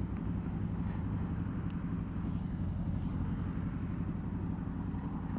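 Suzuki V-Strom's V-twin engine running steadily: a low, even hum with no revving.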